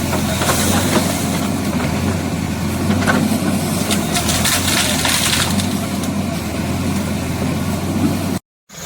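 A vehicle engine running steadily, with a short rush of noise about four seconds in. The sound cuts out for a moment near the end.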